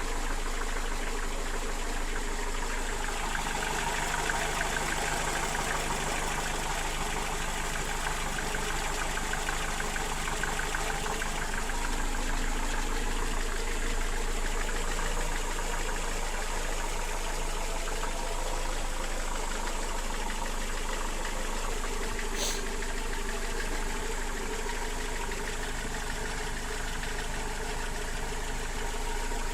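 Mercedes-Benz M102 four-cylinder petrol engine running steadily with an extraneous knocking noise. The owner attributes the knock to worn connecting-rod bearings, pistons, wrist pins, bushings and rings. There is a single sharp click about two-thirds of the way through.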